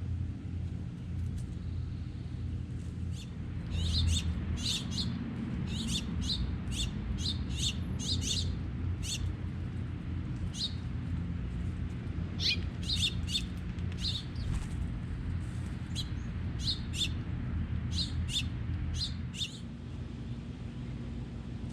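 A songbird repeating short, sharp chirps, roughly two a second, with a brief pause midway, over a steady low rumble.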